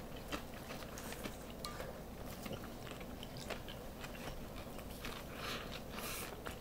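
A person chewing a mouthful of sandwich, close to the microphone: soft, wet chewing dotted with small crackles.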